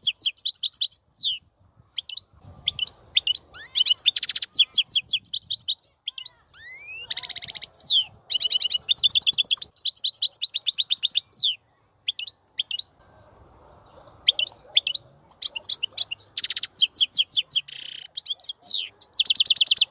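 European goldfinch singing: phrases of rapid twittering trills and quick chirps, broken by short gaps and a pause of about two seconds midway.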